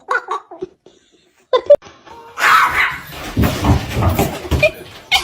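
People laughing hard, in a loud, pulsing burst that starts about two and a half seconds in, after a few short voice sounds.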